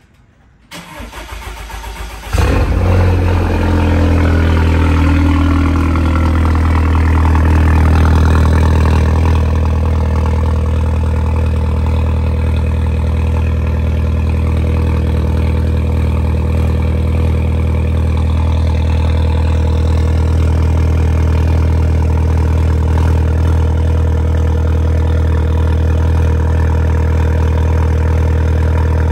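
Audi A4 B8 2.0 TFSI turbocharged four-cylinder starting through an aftermarket Emil exhaust with its Varex valve open. The starter cranks for about a second and a half, the engine catches loudly, holds a raised idle for several seconds, then settles to a steady idle.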